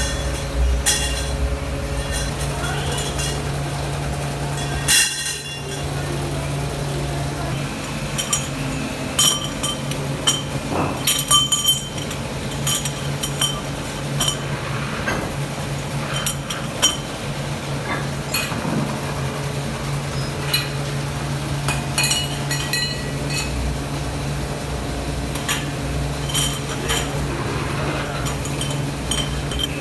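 Metalworking shop sounds: a steady machine hum under frequent light metallic clinks and taps of metal parts being handled, with one sharper knock about five seconds in and a quick run of clinks around eleven seconds.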